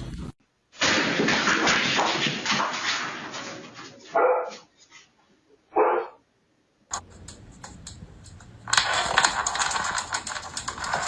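Two short, loud dog barks about four and six seconds in, after a stretch of rustling noise; a different clip with steady hissing noise follows.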